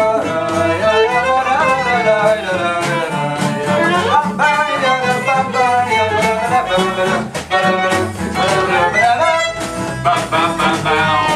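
Live folk-rock band playing an instrumental break: a violin carries the melody with sliding, bending notes over the band's accompaniment and steady percussion hits.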